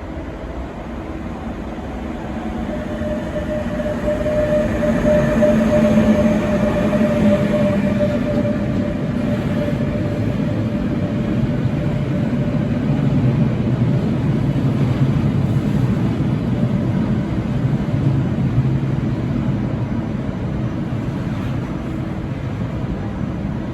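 A train running past, growing louder over the first six seconds and then holding steady, with a steady whine over the rumble in the first half.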